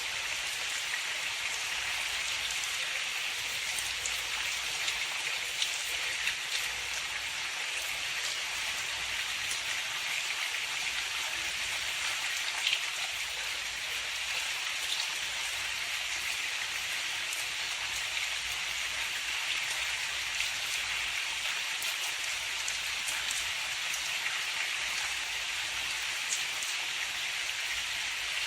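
Steady rain falling, an even hiss with scattered small ticks of individual drops striking a surface.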